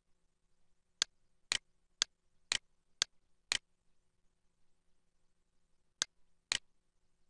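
Computer mouse button clicking: six sharp clicks about half a second apart, then two more near the end.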